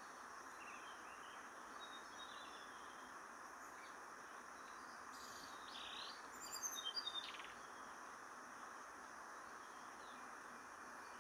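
Faint high chirps of small wild birds. A quick run of chirping notes about six to seven seconds in stands out over a steady background hiss.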